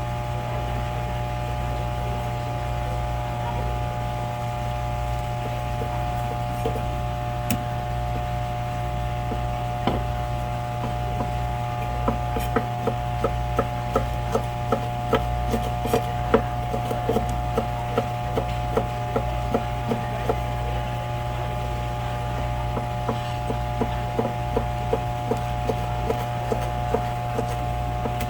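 Sashimi knife slicing a seabream fillet into thick pieces, each cut ending in a short tap on the cutting board, about two a second. The cutting starts about halfway through, pauses, then resumes near the end, over a steady machine hum.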